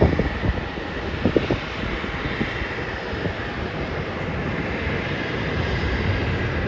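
Airbus A320 airliner's jet engines passing overhead in its climb after takeoff: a steady rushing noise with a faint, high, steady whine.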